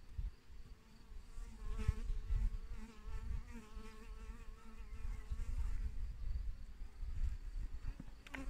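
A flying insect buzzing, its pitch wavering, from about a second and a half in until around six seconds, with a low rumble underneath; the buzz starts again at the very end.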